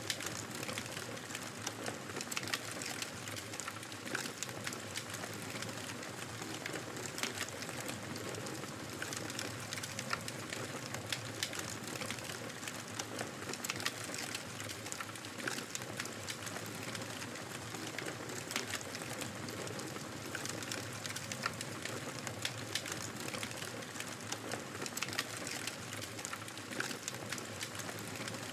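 Wood fire burning steadily in a fireplace, with a soft hiss and frequent sharp crackles and pops at irregular intervals.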